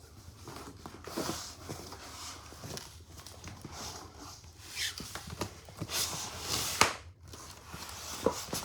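Rustling and irregular knocks of a large package being handled and opened, with a sharp bump near the end.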